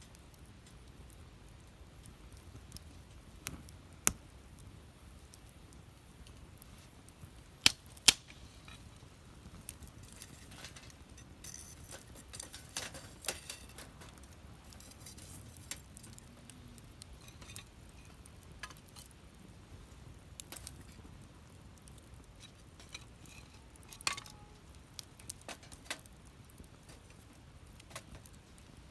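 Wood fire burning in a fire pit, crackling with scattered sharp pops over a low background. The loudest pops come at about four seconds and twice around eight seconds, with a small cluster of them near the end.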